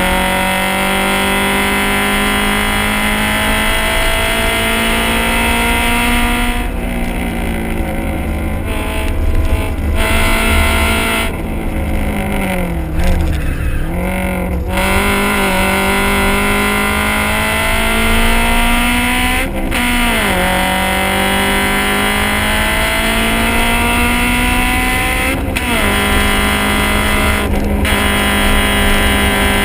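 Honda CRX's four-cylinder engine and exhaust at high revs on a race track, pulling hard with the pitch climbing steadily in each gear. Short breaks come several times as the driver lifts and changes gear, with a longer dip and recovery about halfway through, as when braking for a corner.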